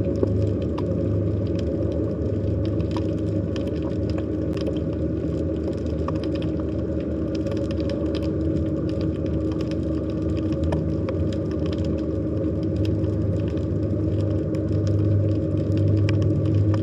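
Underwater sea ambience: a steady low drone with a deep hum and a higher steady tone, with faint crackling clicks scattered throughout.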